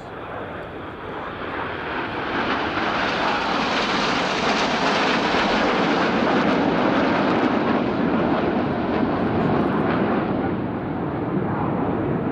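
BAE Hawk T1 jet with its Rolls-Royce Turbomeca Adour turbofan flying a low pass. The engine's rushing noise builds over the first few seconds, is loudest for several seconds in the middle, then fades as the jet moves away.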